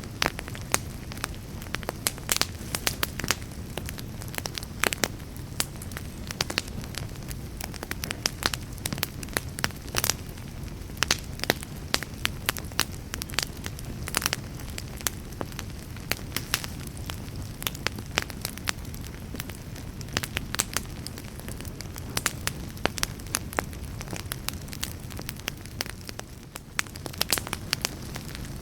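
Wood fire burning in a fireplace: a steady low rumble of flames with frequent sharp crackles and pops, several a second, at irregular intervals.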